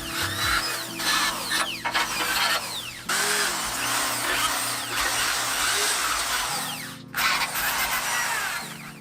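Electric drill spinning a steel wire brush against the rusty motorcycle frame, scouring off rust. The scraping drops out briefly about three seconds in and again about seven seconds in.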